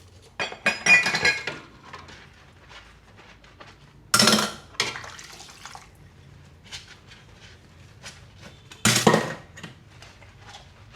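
Dishes and cutlery clinking and clattering in a sink during hand dishwashing, with three louder clatters, about a second in, around four seconds in and near the end, and small scattered clinks between.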